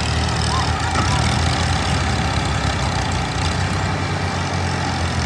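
Combine harvester's diesel engine running steadily under load, a low drone beneath a constant dense rush of noise from the working machinery.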